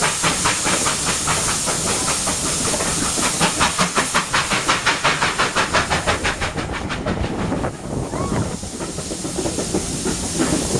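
Steam locomotive working a train: a regular chuff of exhaust beats, about four a second, over a steady hiss. About eight seconds in the beats give way to a rumbling, hissing run with a few faint squeals.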